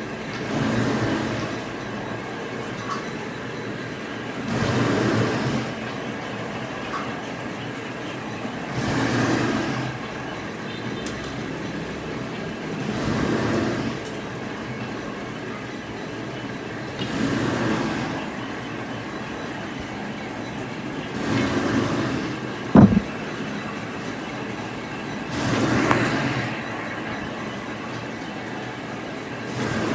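Machinery running in a regular cycle: a surge of noise about every four seconds over a steady background, with one sharp knock about two-thirds of the way through.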